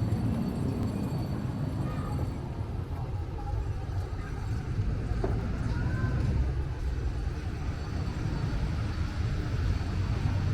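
Wind buffeting the microphone: a rough, steady low rumble.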